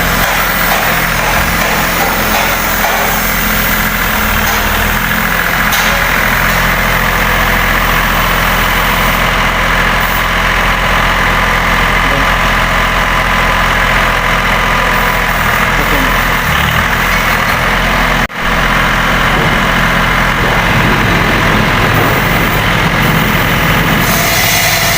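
A motor running steadily, with a low hum and a dense whir above it, broken once for a moment about 18 seconds in.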